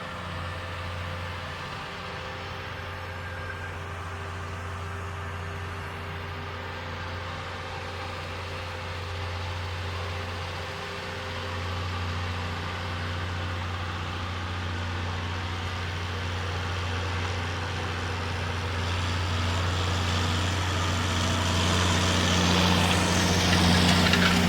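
John Deere 6920S tractor's six-cylinder diesel engine running steadily while pulling a seed drill, growing louder over the last few seconds.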